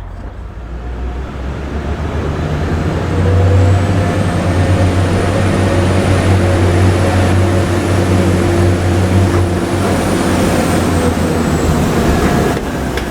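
Diesel train running loudly at the station, its engine note swelling about three seconds in, with a faint high whine that rises, holds and then fades near the end.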